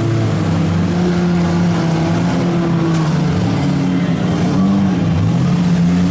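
Several demolition-derby vans, trucks and SUVs with their engines running and revving at once, the overlapping engine notes rising and falling.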